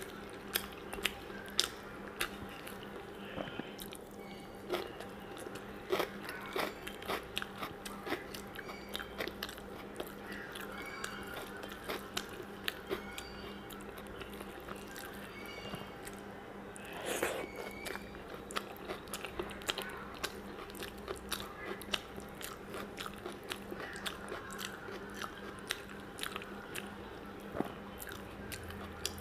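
Close-miked eating sounds: chewing with wet mouth clicks and lip smacks, dozens of short sharp clicks throughout, as rice mixed with fried greens and mashed potato is eaten by hand.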